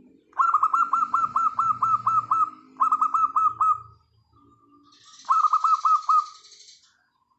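Zebra dove (perkutut) calling: quick runs of short, falling staccato notes, a long run, then a shorter one, then another short run about five seconds in. A softer, lower cooing sounds underneath near the start.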